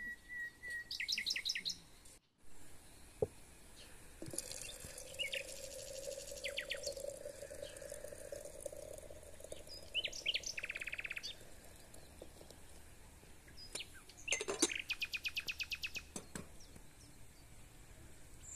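Small songbirds chirping in quick runs of rapid, evenly spaced high notes, several times over.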